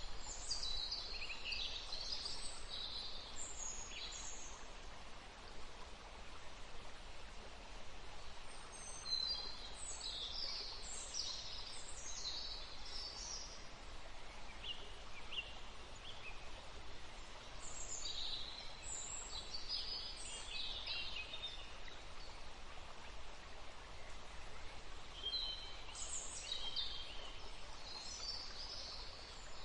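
A woodland stream running steadily, with songbirds singing in short bursts of quick high notes that come in four spells, roughly every eight to nine seconds.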